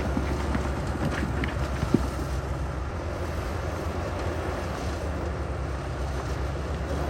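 Heavy diesel earthmoving equipment running steadily with a low engine drone, with a few faint knocks and one sharp knock about two seconds in.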